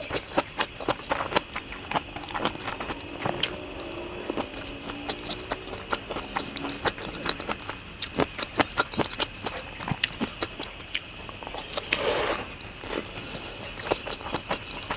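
A person eating close to the microphone: irregular wet chewing and lip-smacking clicks, with a brief louder smack about twelve seconds in. A steady, high, pulsing insect trill runs underneath.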